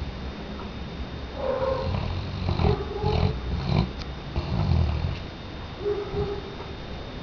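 Weimaraner dog snoring in its sleep: a run of uneven, rumbling snores, with a short whistle-like tone on some breaths.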